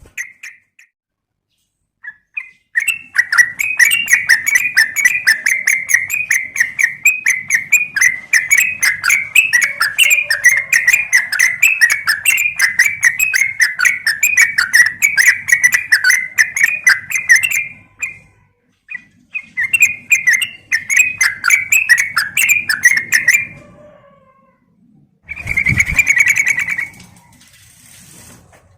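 Yellow-vented bulbul (trucukan) giving long runs of rapid chattering chirps, about five a second. The calls come in three bouts with short pauses between them. It is a female's call to the male.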